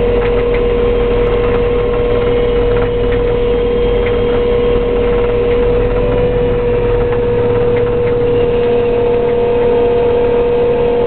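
CAT 485R combine's engine running steadily as the machine travels down the road, with a constant hum over a low rumble.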